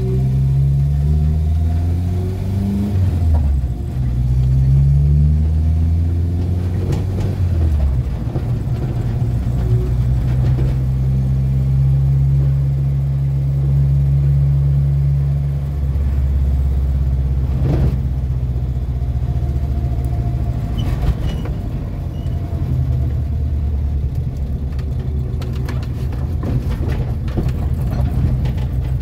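Renault 4's four-cylinder engine heard from inside the cabin while driving: its pitch rises twice as it pulls through the gears in the first seven seconds or so, then it runs steadily at cruising speed, its note dropping about sixteen seconds in.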